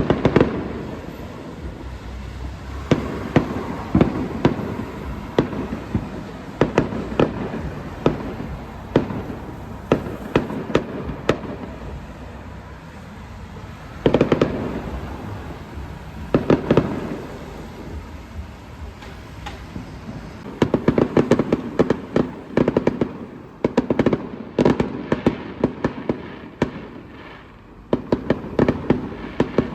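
Fireworks display: a long run of sharp bangs from bursting shells, coming thick and fast in rapid clusters during the last third.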